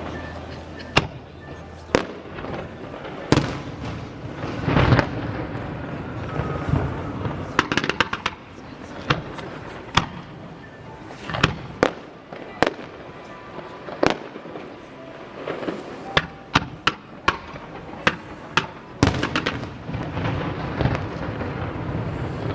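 Aerial fireworks display: shells bursting in an irregular run of sharp bangs, often less than a second apart, with clusters of rapid crackling.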